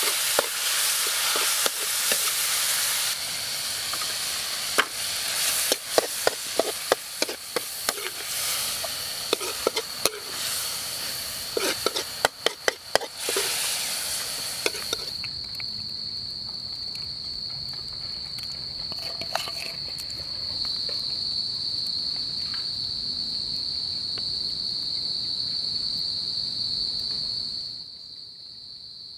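Food sizzling in a hot wok, with a metal ladle repeatedly clinking and scraping against the pan as the stir-fry is scooped out. About halfway through this gives way to a steady, high-pitched insect drone, which grows quieter near the end.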